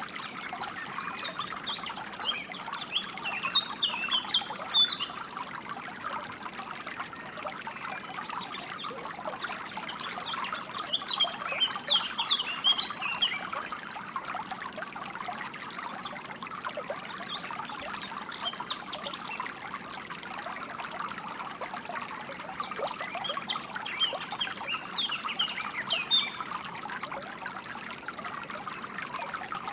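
Water trickling and flowing steadily, with songbirds breaking in with bouts of quick, high chirping every several seconds.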